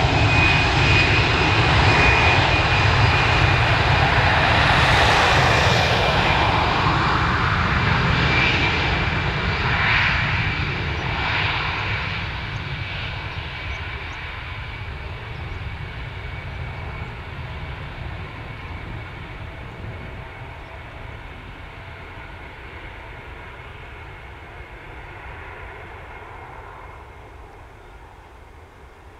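Airbus A320 jet engines at takeoff thrust, loud at first with a high whine, then fading steadily as the airliner climbs away.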